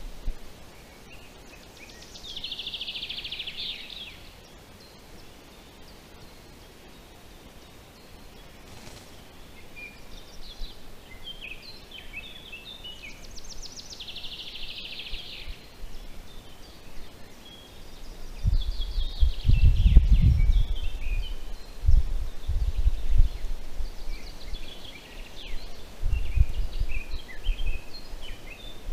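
Songbirds singing in the forest, short bright phrases coming every few seconds. About two-thirds of the way through, low rumbling bursts come in on the microphone and are the loudest sound, returning briefly twice near the end.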